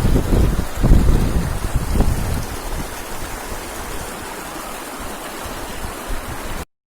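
River water rushing steadily, with wind buffeting the microphone in heavy low gusts over the first two seconds or so. The sound cuts off suddenly near the end.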